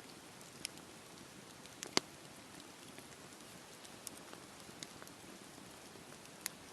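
Wood fire burning in a fireplace: a soft, steady hiss with scattered crackles and pops, the loudest about two seconds in.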